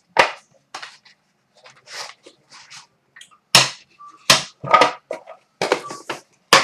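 A string of sharp clicks and snaps, about eight spread irregularly, from cards and their plastic holders and packaging being handled and opened, with a short faint squeak about midway.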